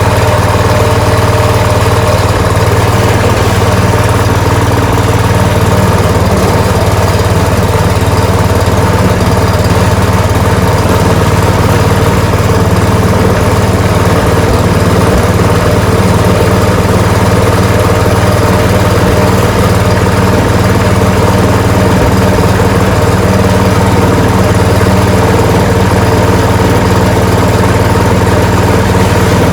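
Ariens 624E two-stage snowblower's small single-cylinder engine running steadily at a constant speed.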